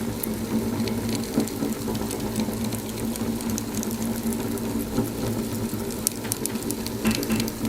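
Wood fire in a fireplace crackling, a steady low rush of flame with scattered sharp pops and snaps, which come thicker near the end.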